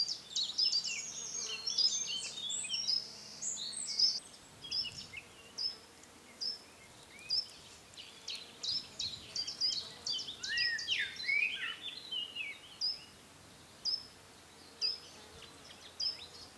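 Birdsong: several small birds singing with quick high chirps and warbled phrases, one repeating a short high note steadily, a little more than once a second.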